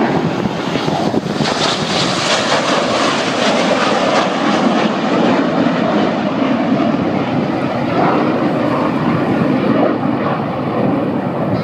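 BAE Hawk T1 jets taking off, their engines making loud, steady jet noise that grows brighter and hissier between about one and five seconds in.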